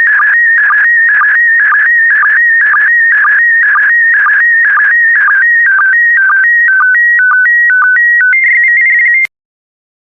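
Slow-scan TV (SSTV) image signal in PD120 mode: a loud, warbling electronic tone sweeping through the picture's scan lines, about two per second. Near the end it changes to a short run of stepped beeps and cuts off suddenly about nine seconds in, as the image transmission ends.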